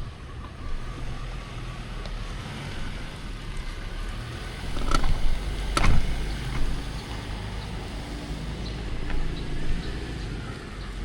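City street traffic heard from a moving bicycle: cars and motorbikes running past over a steady low rumble of wind and road noise. Two sharp knocks about five and six seconds in are the loudest sounds.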